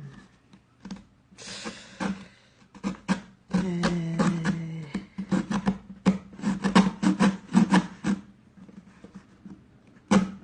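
Cardboard tube being peeled and worked by hand: a dense run of rapid crackles and ripping rustles of paper board.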